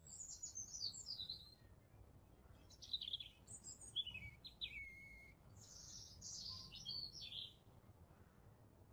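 Faint songbird chirping and twittering in three short clusters of quick high calls, some sliding downward, over a soft steady background hiss.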